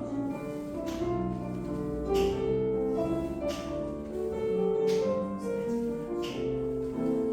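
Slow classical piano music with a steady, even beat, the kind played to accompany a ballet class exercise.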